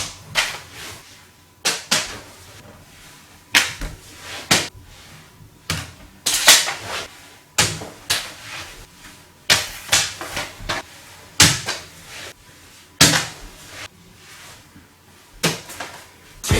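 A string of irregular sharp taps and clacks with short papery rustles, like paper airplanes being handled, launched and landing.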